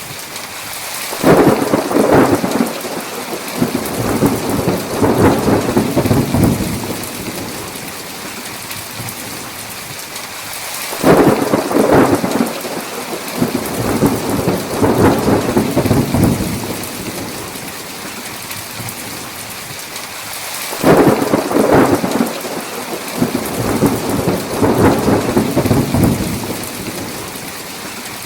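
Steady heavy rain with three thunderclaps about ten seconds apart, each starting with a sharp crack and rolling on for several seconds before fading back into the rain.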